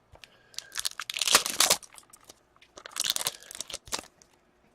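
Plastic trading-card pack wrapper crinkling and tearing as a hockey-card pack is opened, in two rustling bursts about a second long each.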